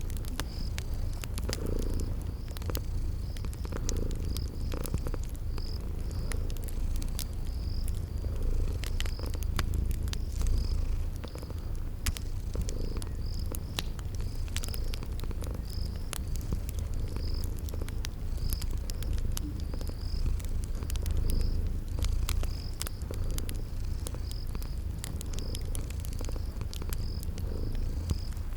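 Cat purring in a steady low rumble, layered with a fire's crackling pops and clicks and regularly repeating cricket chirps.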